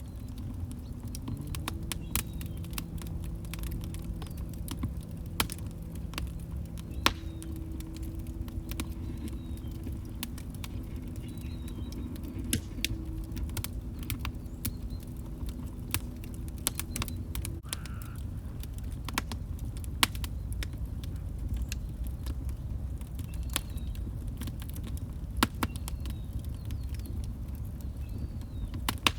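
Wood log fire crackling in a fireplace: irregular sharp pops and snaps, a few louder than the rest, over a low rumbling burn.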